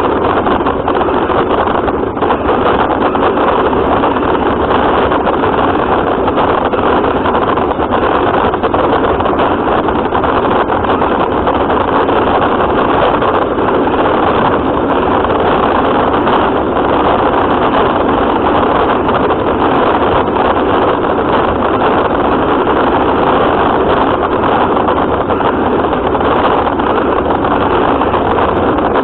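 Radio-controlled car running, heard close up from its onboard camera: a loud, steady rush of motor, drivetrain and tyre noise with no letup.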